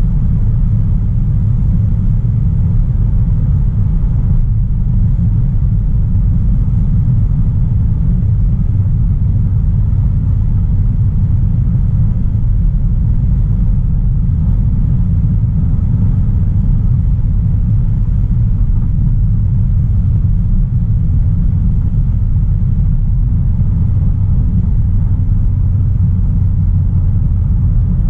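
Low, steady road and engine rumble heard from inside the cabin of a 2016 Audi A3 Sportback 1.4 TFSI, a turbocharged four-cylinder petrol, cruising at an even pace with no revving.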